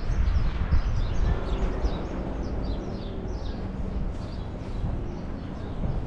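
Many small birds chirping in quick short notes, one call after another, over a steady low rumble of street background.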